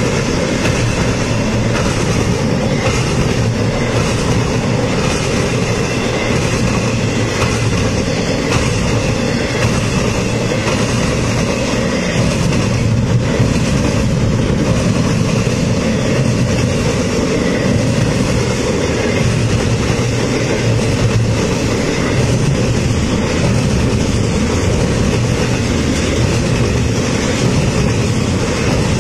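A train rolling past, its wheels rumbling steadily on the rails, loud and unbroken throughout.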